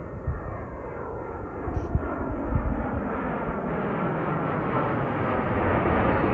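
Airliner's engines roaring, growing steadily louder, with faint whining tones that slide downward in pitch.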